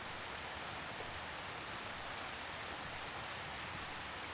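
Gentle drizzle falling steadily: an even hiss of rain with a few faint drop ticks scattered through it.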